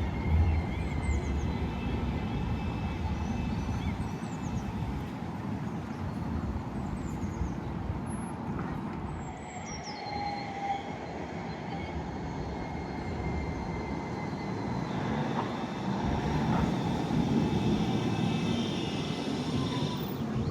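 Heritage tram running along the track: a steady rumble with faint high whining tones over it.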